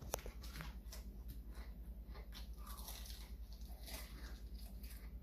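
A person chewing chicken nuggets: faint, irregular crunching and wet mouth clicks over a low steady hum.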